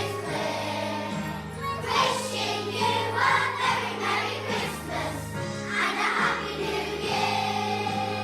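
A children's choir singing a Christmas song over instrumental accompaniment with steady held bass notes and jingle bells.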